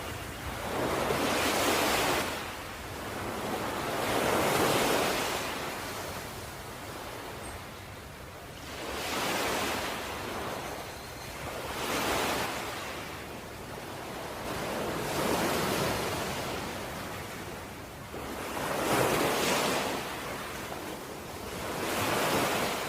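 Ocean waves washing in, each a rush of surf that swells and dies away, one about every three to four seconds.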